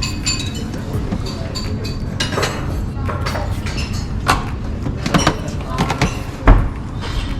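Busy room ambience: a steady low rumble with scattered short knocks and clinks and bits of voices, and a loud low thump about six and a half seconds in.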